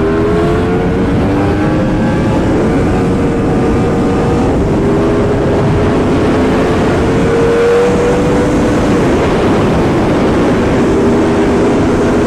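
Yamaha R1M's crossplane inline-four engine with an aftermarket titanium exhaust, running under way on the road. The engine note climbs slowly through a gear for most of the stretch, eases off a little near the end and then holds, over a heavy rush of wind.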